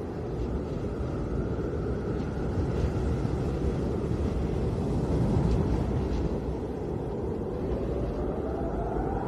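Snowstorm wind blowing steadily with a deep rumble. Near the end a whistling howl rises in pitch.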